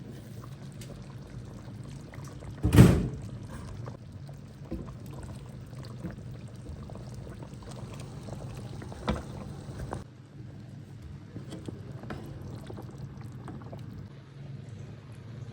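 Steady low hum with a loud knock about three seconds in and a smaller knock about nine seconds in.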